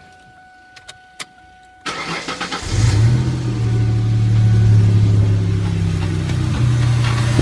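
A 2004 Ford Mustang's 3.9-litre V6 being started. A couple of clicks come first, then the starter cranks briefly about two seconds in, and the engine catches and settles into a steady idle. The owner hears a bad hissing from the engine bay and puts it down to the alternator, whose bearing he believes has gone.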